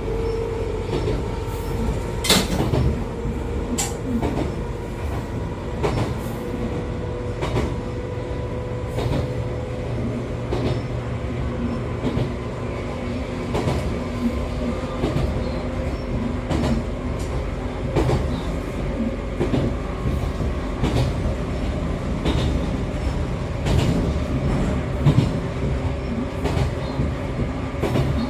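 Onboard running sound of an Echizen Railway MC6101-series railcar, the car known for an unusual running noise: its MT54 DC traction motors and gears whine in steady tones that rise slowly through the second half, over a running rumble with frequent irregular clacks of the wheels and bogies.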